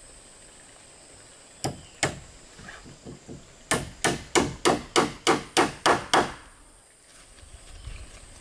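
A tool striking wood: two single blows, then a quick run of about ten blows at roughly three to four a second.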